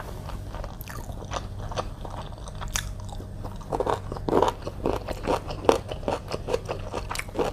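Close-miked eating of noodles with chicken: wet chewing and mouth smacking with many short clicks and crunchy bites, growing busier and louder about halfway through.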